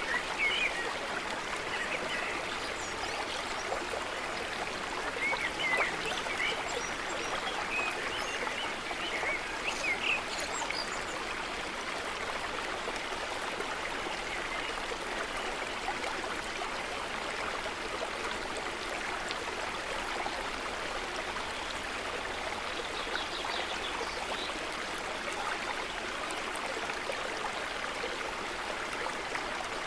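Small stream or brook running steadily. Scattered short bird chirps sound over it through the first ten seconds or so, and again briefly later on.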